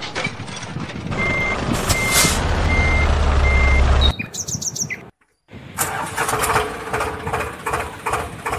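A vehicle's reversing alarm beeps four times, evenly spaced, over engine noise and a rising low rumble. The sound then cuts off abruptly, and after a brief silence a different machine sound with a rhythmic pulse of about three a second takes over.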